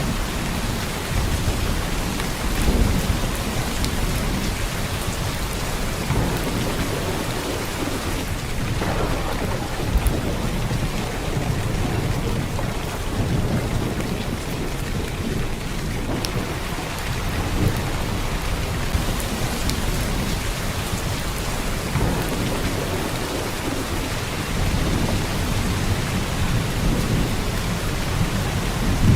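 Heavy downpour: a steady hiss of rain with a deep rumble underneath that swells and fades, and now and then a sharp single drop-hit.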